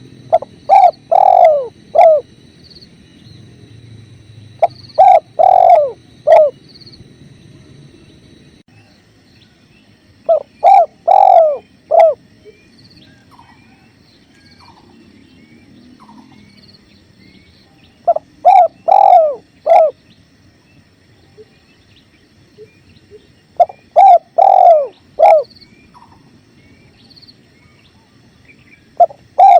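Spotted dove (tekukur) cooing loudly: a phrase of four or five coos, repeated every five to eight seconds, over the faint low rush of flowing river water. Faint high chirps of small birds sound between the phrases.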